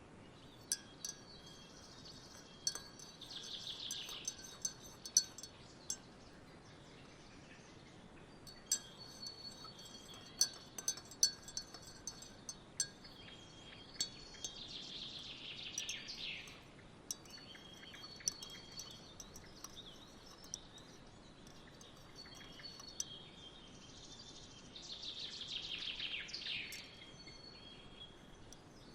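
Wind chimes tinkling in irregular clusters of bright, ringing strikes over a soft steady outdoor background, with three longer sounds that fall in pitch.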